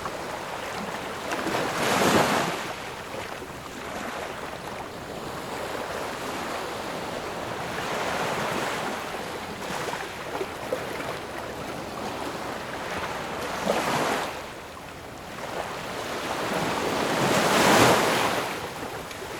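Ocean waves breaking and washing on the shore, with the biggest breakers cresting about two seconds in, around fourteen seconds in and near the end, and a softer swell between them.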